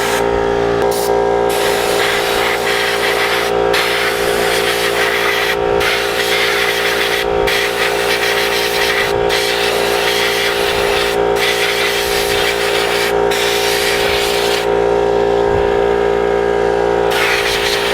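Compressed air blowing dirt off the furnace's fins: a loud hiss in long blasts, broken by short gaps about every two seconds and stopping for a couple of seconds near the end before starting again. Under it runs a steady machine hum.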